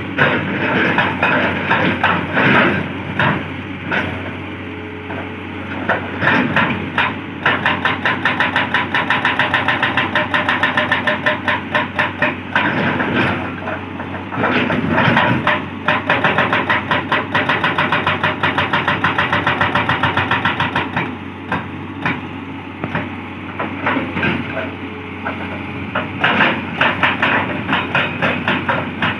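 Hitachi 200-class excavator's hydraulic breaker (hammer) pounding rock in rapid, evenly spaced blows, in long runs with short gaps between. The excavator's engine hums steadily underneath.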